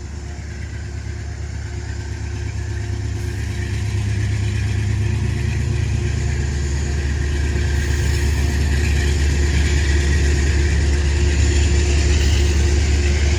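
Metro-North locomotive 227 pushing its train out of the station: a low, steady engine drone that grows louder over the first few seconds and then holds.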